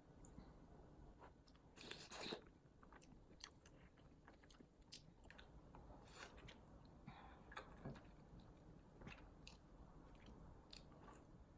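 Faint eating sounds near silence: soft chewing and crunching with small scattered clicks, the loudest crunchy cluster about two seconds in.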